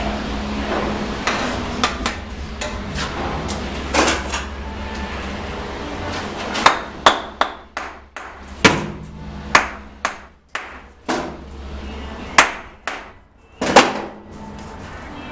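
A masonry tool strikes cement brick in sharp, ringing knocks, about ten of them and mostly in the second half, over a low steady hum.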